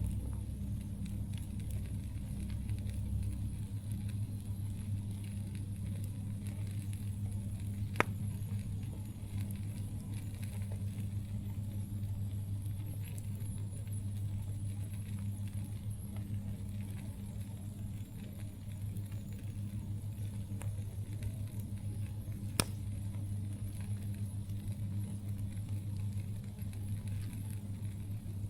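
Campfire burning with a low continuous crackle of small clicks and two sharp pops, about 8 seconds in and near the end, over a steady low hum.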